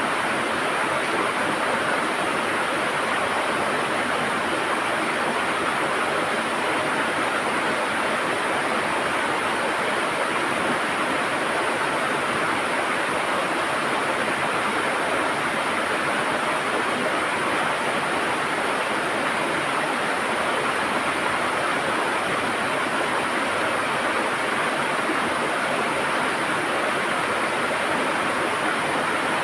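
River water rushing and gurgling over rocks, a steady, unbroken flow.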